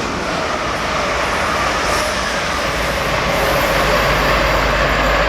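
Train approaching at speed, its rushing wheel and rail noise growing steadily louder.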